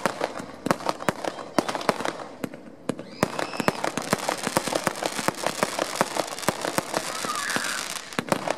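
Display fireworks going off: a rapid run of sharp bangs and pops, with a dense spell of crackling from about three seconds in.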